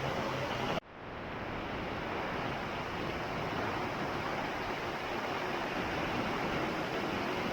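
Heavy rain pouring down, a steady dense hiss. About a second in, the sound cuts out for an instant and fades back in.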